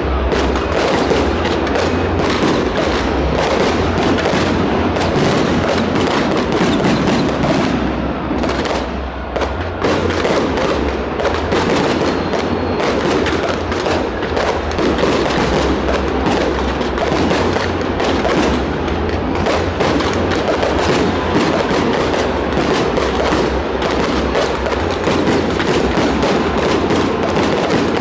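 A fireworks display: a dense, continuous barrage of bangs and crackles that runs without a break.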